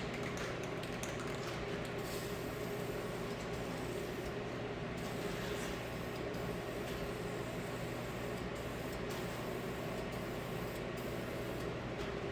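Aerosol spray can of black paint hissing steadily as it sprays, with a few brief breaks in the hiss, over a steady low hum.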